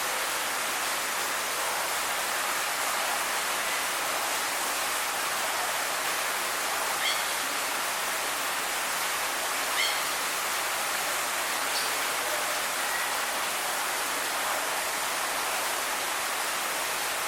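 Steady rushing hiss, with a few short, high bird chirps about seven, ten and twelve seconds in.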